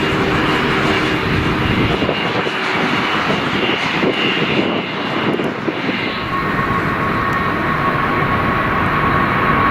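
Jet airliner's engines, loud and steady, with a steady high whine coming in about six seconds in.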